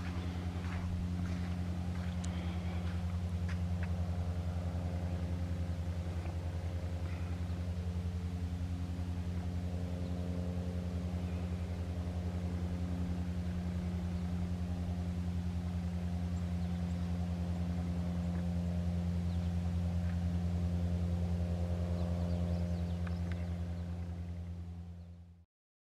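A steady, low engine-like hum that holds one pitch and cuts off abruptly near the end.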